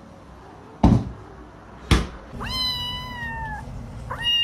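Two sharp thumps about a second apart, then a cat giving a long meow that holds its pitch and then slides down, with a second long meow starting near the end.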